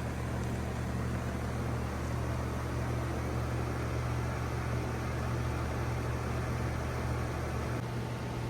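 Heil N4H4 3-ton heat pump outdoor unit running in cooling mode: a steady low compressor hum under the even air noise of the condenser fan. The lowest part of the hum thins slightly near the end.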